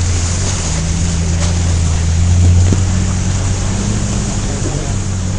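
Vehicle engine running at a steady drone under a constant rush of wind or road noise, loudest about midway.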